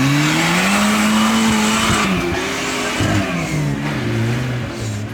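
Off-road competition 4x4's engine revving hard: the pitch climbs over the first second, holds, then falls and rises again. A loud hiss runs alongside for the first two seconds, then drops away.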